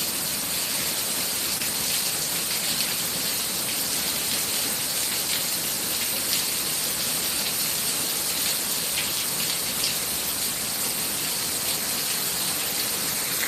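Torrential thunderstorm rain falling steadily: a dense, even hiss with scattered faint drop ticks.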